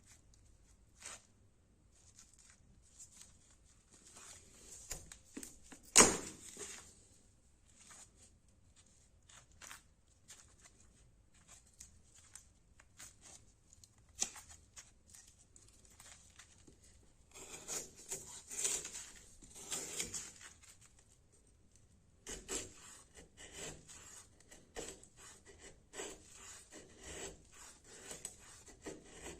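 A fixed-blade knife cutting and scraping wood in short, irregular strokes, with a sharp knock about six seconds in.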